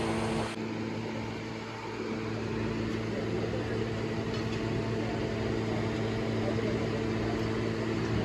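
Steady machine hum, an even drone that holds the same pitch throughout.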